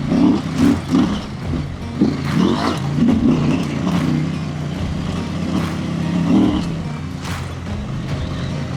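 Husqvarna Norden 901's parallel-twin engine running on the move over a dirt trail, the throttle rising and falling in uneven pulses over the first few seconds and again briefly a little past the middle, with a few sharp knocks.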